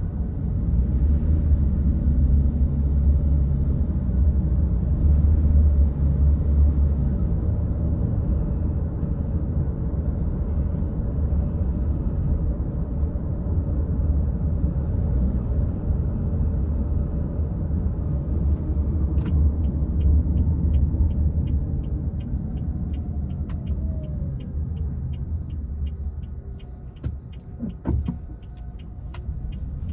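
Car driving with a steady low road and engine rumble. From about two-thirds of the way through, a turn signal ticks at an even rate, about twice a second, and the rumble drops as the car slows near the end.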